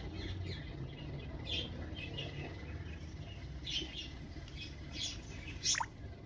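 African grey parrot giving short, high chirps every second or so, then a loud whistle that slides steeply down in pitch near the end, over a steady low rumble.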